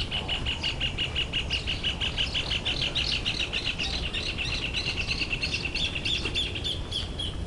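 A bird singing a long, rapid series of short, evenly repeated chirps, about eight a second, with a second run of higher, looser notes over them.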